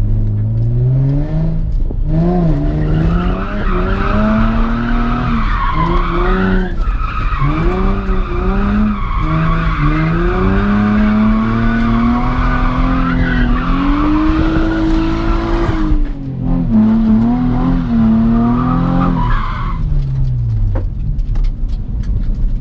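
A car drifting: the engine revs up and down over and over while the tyres squeal. The squeal breaks off briefly about 16 seconds in, and the revs fall away near the end.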